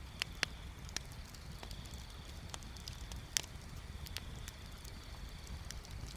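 Wood bonfire crackling: irregular sharp snaps and pops, the loudest about three and a half seconds in, over a steady low rumble.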